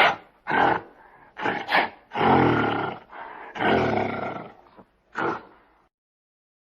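A big cat roaring and growling in a series of calls, the longest about a second each.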